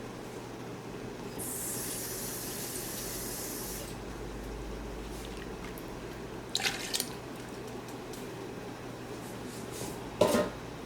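Water running for about two and a half seconds in a kitchen, followed by a couple of light clinks and, near the end, one sharp knock.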